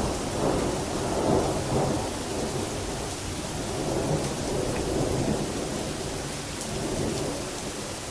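Thunder rolling and rumbling during a heavy thunderstorm, loudest in the first two seconds and then slowly dying away, over the steady hiss of heavy rain.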